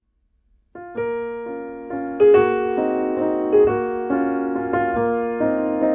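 Piano music starting about a second in after silence: slow, gentle notes and chords struck one after another and left to ring.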